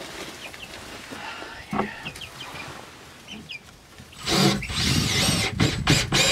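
Young chickens peeping softly a few times, then a loud rushing noise starting about four seconds in.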